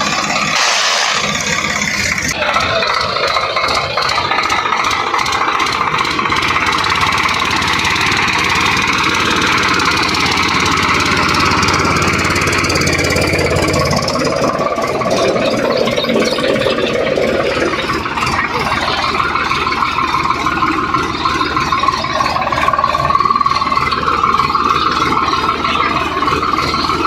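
Swaraj 744 XT tractor's diesel engine running hard under load, with the engine note shifting about halfway through.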